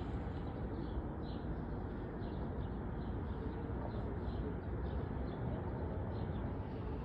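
Steady low outdoor rumble with faint, irregular small bird chirps about twice a second.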